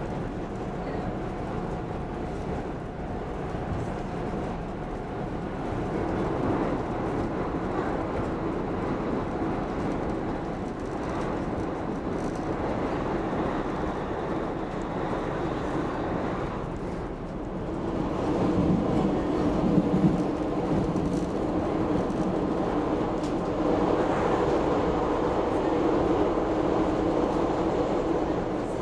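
SL X10 electric commuter train running at speed, heard from inside a passenger car: a steady rumble of wheels on rails and running gear. About two-thirds of the way through it grows louder and fuller as the train runs into a tunnel.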